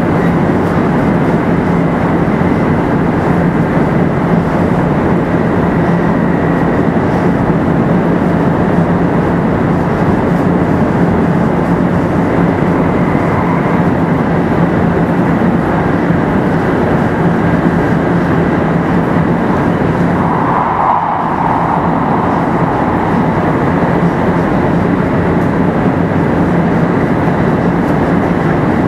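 Running noise of a 500 series Shinkansen (Toshiba GTO VVVF inverter drive), heard from inside the car at a steady speed: an even rumble of wheels and running gear with a steady low hum and a faint high tone. About two-thirds of the way through the noise briefly dips and changes.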